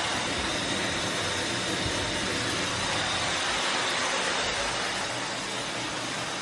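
Shower water running, a steady, even hiss of spray.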